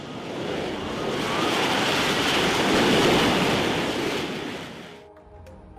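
Jet aircraft passing, a rushing noise that swells to a peak about three seconds in and fades away by about five seconds.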